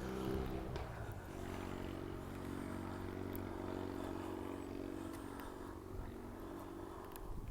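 A motor vehicle's engine running steadily as a low hum, its pitch shifting slightly about a second in.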